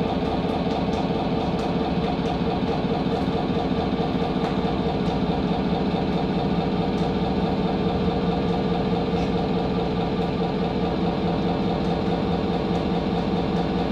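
A steady, unchanging engine-like drone with faint scattered ticks over it.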